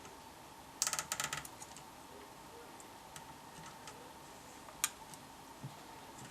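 A quick run of small sharp clicks about a second in, then a few scattered ticks and one sharp click near the end. A faint steady high tone runs underneath.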